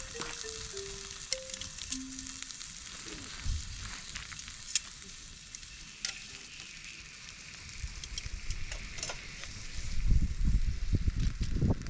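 Meat sizzling as it fries on a grill: a steady hiss with scattered pops. Near the end a run of low thumps and rumbling comes in, louder than the sizzle.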